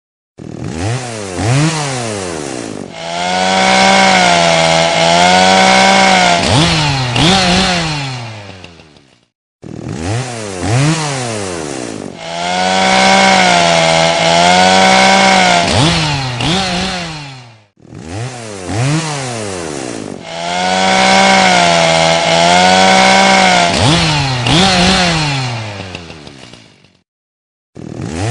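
Chainsaw engine revving in quick rises and falls of pitch, then held at high revs for several seconds, as in cutting, before dying back down. The same roughly nine-second cycle repeats three times with short breaks between.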